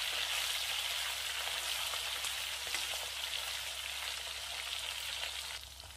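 Chicken pieces sizzling steadily as they fry in hot oil in a kadai, being browned. The sizzle drops sharply near the end.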